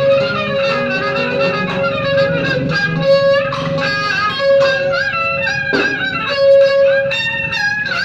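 Traditional Vietnamese ceremonial music from a string ensemble: a bowed fiddle plays a winding melody over plucked strings, with one note held again and again.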